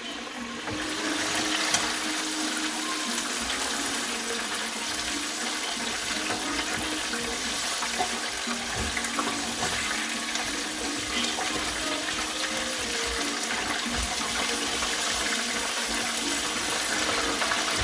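Chicken pieces deep-frying in hot olive oil: a steady sizzling hiss with fine crackling, which swells about a second in and holds.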